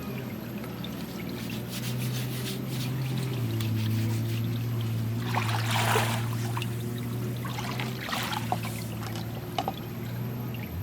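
Backhoe loader's diesel engine running steadily at idle, with water pouring and splashing in two bursts, about halfway through and again a couple of seconds later.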